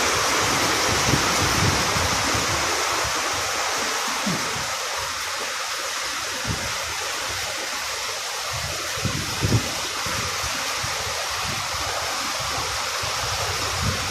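Light rain falling, a steady even hiss, with a few brief low thumps.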